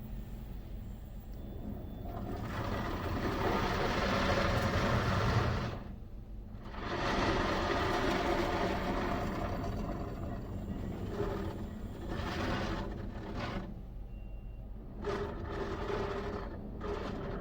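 Hanna Fusion X automatic car wash machinery running with a rushing noise of spray or air that swells, cuts out briefly about six seconds in, returns, and comes in shorter surges near the end.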